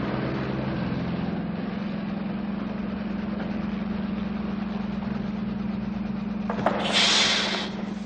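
A steady, even machine hum. A short hiss comes about seven seconds in.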